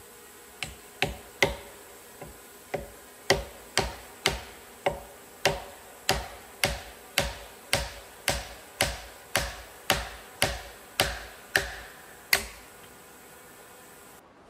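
A steady series of about twenty sharp blows of a hand tool on wood, roughly two a second, stopping about twelve seconds in.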